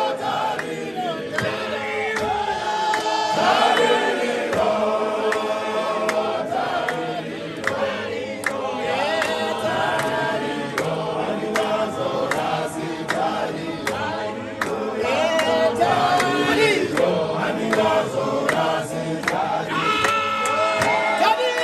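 A group of men and women singing together, unaccompanied and chant-like, with frequent sharp taps heard through the singing.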